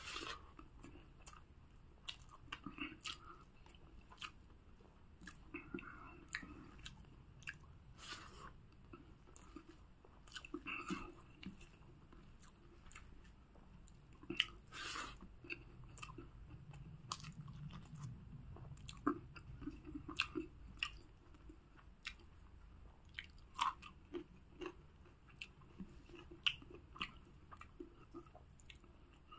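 A person chewing boiled pork and yam up close, eating by hand, with irregular short clicks and smacks of the mouth throughout.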